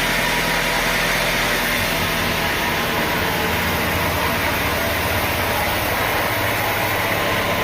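Sawmill machinery running steadily: an engine-driven hum with a broad mechanical hiss, the low hum shifting in pitch about halfway through.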